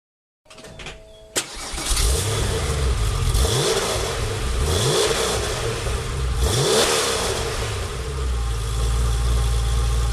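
Porsche 993's air-cooled flat-six starting up about a second and a half in, then revved three times and settling into a steady idle. It breathes through mufflers with a welded bypass tube that lets the exhaust skip the baffles, for a deeper, rawer note.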